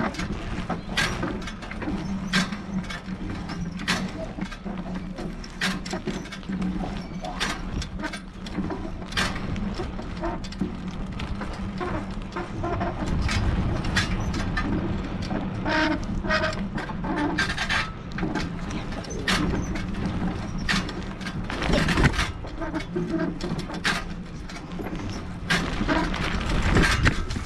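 Bike being ridden over rough ground: a steady rumble and hum with frequent irregular rattles and knocks from the frame and parts as it bumps along, one sharp knock near the end.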